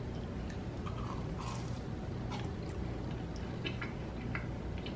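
Faint biting and chewing of a piece of home-fried chicken: scattered small wet mouth clicks over a steady low hum.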